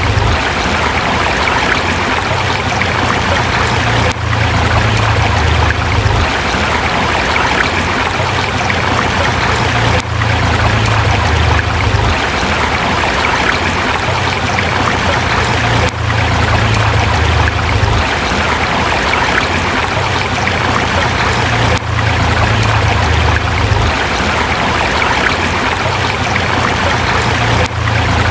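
Forest river flowing steadily over rocks, with a brief dip in level about every six seconds.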